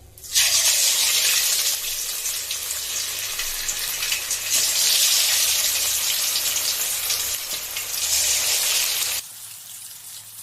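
Marinated chicken wings going into hot oil in a pan and frying with a loud, dense sizzle that starts suddenly as they hit the oil. The sizzle drops off sharply near the end.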